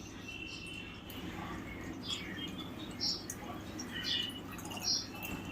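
Short, high-pitched bird-like chirps, about eight of them, mostly in the second half, over a steady low hum.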